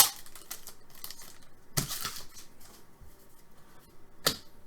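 Trading cards being handled and set down on a table: soft rustling broken by three sharp taps, the first the loudest.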